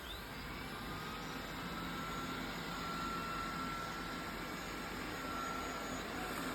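Xiaomi Robot Vacuum S10+ running: a steady whir of its suction fan with a faint high whine held through it.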